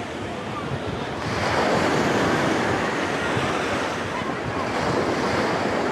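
Sea waves washing onto a beach, with wind on the microphone; the surf swells up about a second in.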